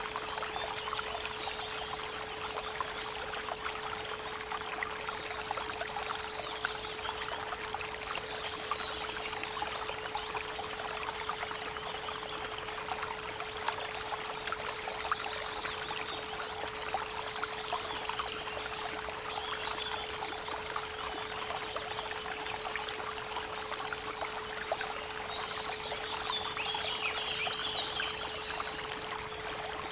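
Creek water running steadily, with a steady 432 Hz pure tone underneath and short bursts of bird song every several seconds.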